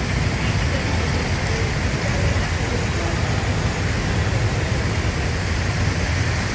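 Heavy rain falling in a steady rush on a flooded street, with a low rumble underneath.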